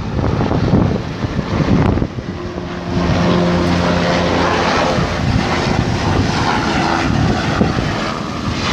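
Helicopter flying past overhead, a loud, steady engine and rotor noise with a held tone through the middle of the pass.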